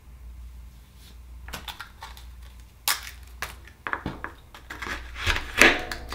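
Oyster shell being pried open and scraped with a knife: a run of crunching cracks, clicks and scrapes, the loudest near the end.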